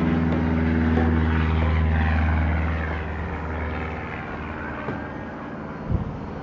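A steady, low engine-like drone, loudest for the first two and a half seconds and then easing off, with a few light knocks and a single sharper thump near the end.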